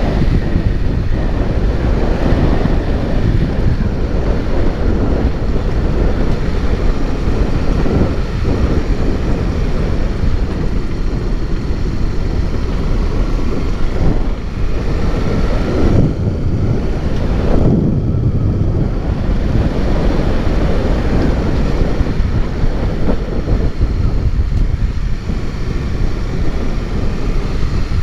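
Wind buffeting the microphone over a motorcycle running along a road.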